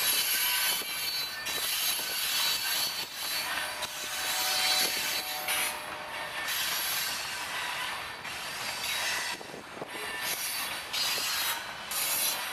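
Freight train of covered hopper cars rolling past: steel wheels clattering steadily over the rails, the level rising and falling, with thin high-pitched squealing tones from the wheels.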